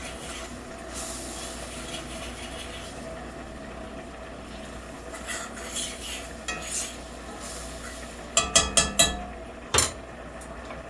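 Stirring in a pan on the stove with a faint sizzle, then a quick run of about five sharp metallic clinks of a utensil against the pan about eight seconds in, and one more clink a second later.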